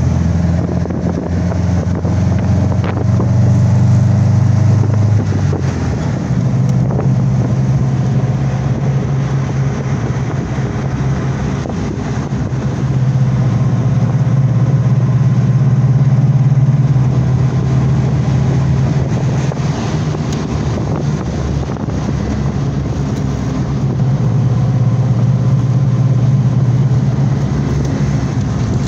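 Vintage car's engine running under way, heard from inside the cabin, with road and wind noise. The low engine note changes pitch about six seconds in, and it swells and eases several times as the car speeds up and slows.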